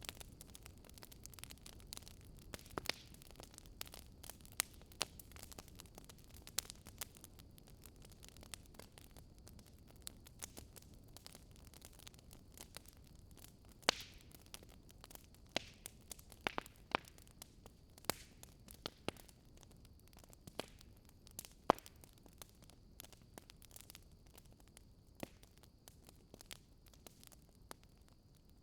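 Wood fire crackling in a fireplace: irregular sharp pops and snaps over a low, steady rumble of burning, with a few louder pops in the middle.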